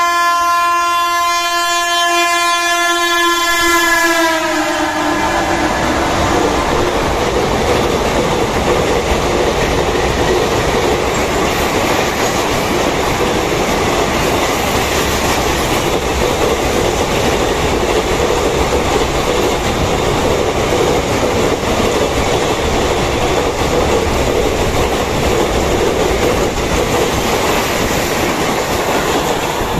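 A WAG-12B electric freight locomotive's horn sounds and drops slightly in pitch as it goes by about four seconds in. It is followed by the steady, loud noise of a long goods train passing at speed, wheels running on the rails.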